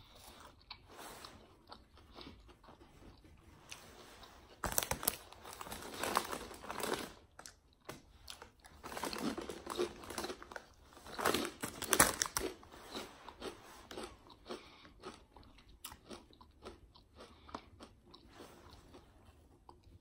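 A person biting into and chewing a mouthful of a sub sandwich, with crunching and irregular chewing clicks, loudest in two stretches around five seconds in and from about nine to twelve seconds in.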